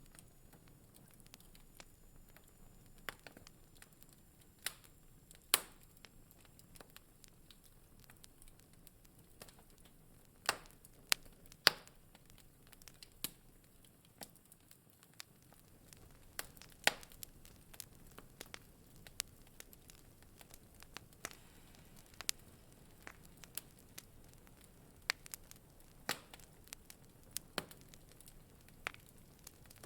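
Wood fire in a fireplace crackling: irregular sharp pops and snaps over a faint low hiss, with a few much louder pops scattered through.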